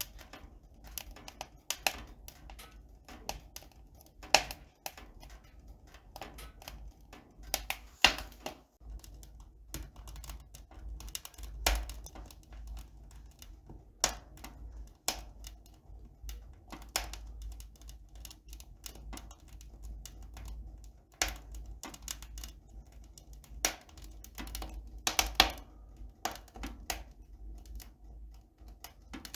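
Irregular clicking and light tapping, one sharp click after another at an uneven pace, with a few louder clicks.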